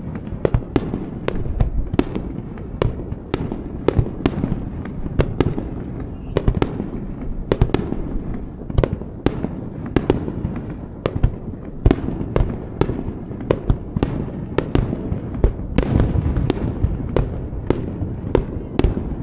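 Fireworks display in full barrage: a dense run of sharp bangs and cracks, a few every second, over a continuous low rumble of bursting shells.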